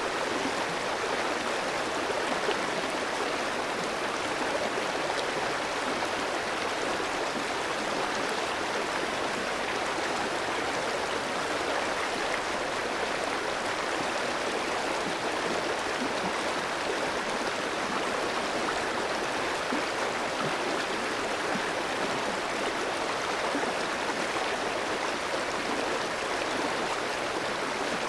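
Clear shallow stream flowing over rocks: a steady rush of water with fine bubbling and splashing, unchanging throughout.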